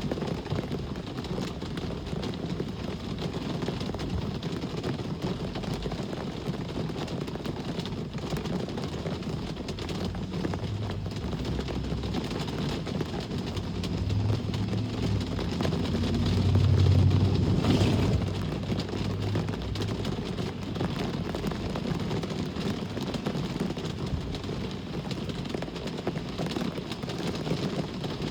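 Steady rain and traffic hiss, with one vehicle passing: a low rumble and tyre noise build up just before halfway, are loudest a little past halfway, then fade.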